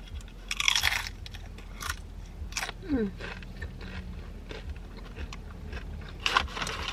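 Tortilla chips crunched and chewed close to the microphone: a burst of crunching about half a second in, a couple of single crunches, then more crunching near the end.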